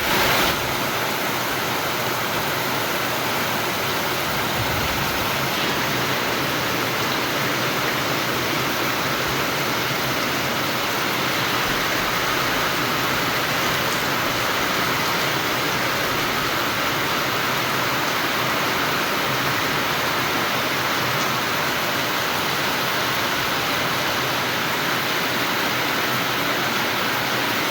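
Heavy rain falling, a steady dense hiss of downpour.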